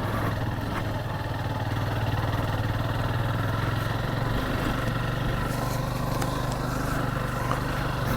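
Motorcycle engine running steadily at low revs, its low hum holding an even pitch with a slight shift about halfway through.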